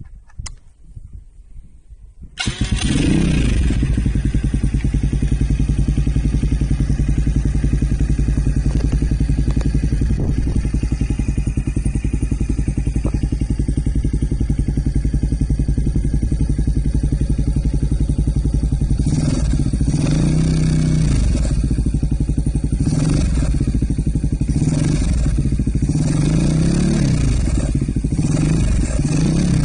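Kawasaki KSR110's single-cylinder four-stroke engine breathing through a BEET Nassert aftermarket muffler: it starts about two seconds in and idles steadily. In the last third the throttle is blipped about half a dozen times, each rev rising and falling back to idle.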